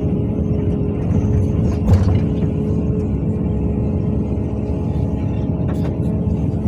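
CAT 320D L hydraulic excavator's diesel engine running steadily under working load, with a held whine over the rumble and a sharp clunk about two seconds in.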